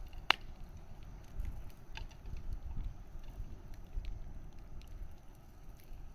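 Campfire crackling with scattered small snaps, a sharp pop about a third of a second in and another at about two seconds, over a low steady rumble.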